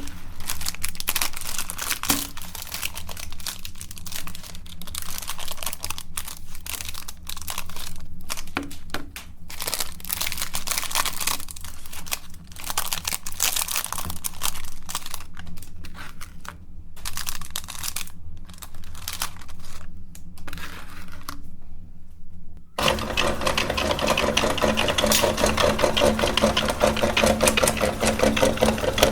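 Irregular crinkling and tearing of packaging, stopping and starting, then an electric meat grinder's motor switches on abruptly and runs steadily with a fast rhythmic whirr.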